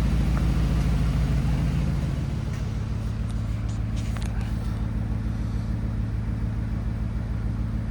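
A 2013 Ford F-150's 5.0L V8 engine idling steadily, its note easing slightly quieter about two seconds in.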